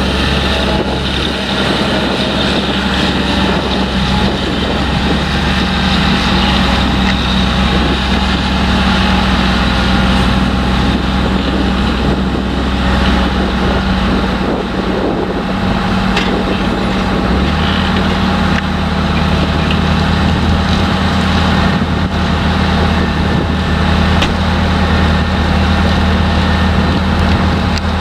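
Heavy diesel farm machinery running steadily at a potato harvest, with harvester and tractor engines droning together; the low engine note rises slightly about two-thirds of the way through.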